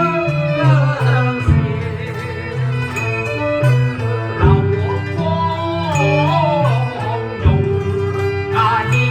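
Cantonese opera accompaniment: bowed and plucked strings playing a melody over a low bass line, with a sharp percussion strike about every three seconds.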